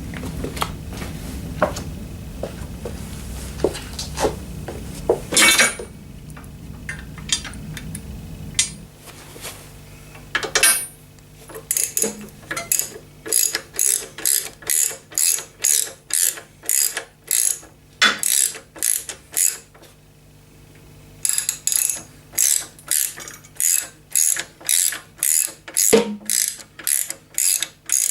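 A few scattered clicks and knocks, then a hand socket ratchet wrench clicking through repeated short strokes, about two a second, with a short pause partway. The ratchet is tightening bolts that secure a motorcycle engine bar.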